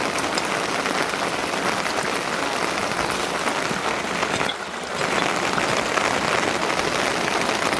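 Steady rain falling, a dense even hiss of drops, with a brief drop in level about four and a half seconds in.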